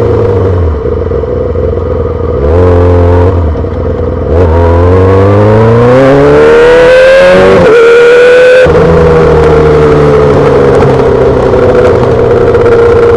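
2008 Yamaha R6's inline-four through a full SC-Project exhaust. It comes off the throttle with falling pitch, gives a short rev, then accelerates with steadily rising pitch. A gear change comes near nine seconds in, after which it holds a steady cruise.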